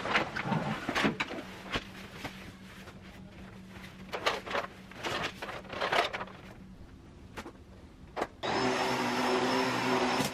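Scattered knocks and clatter of things being handled. About eight seconds in, a vacuum cleaner motor starts up and runs steadily.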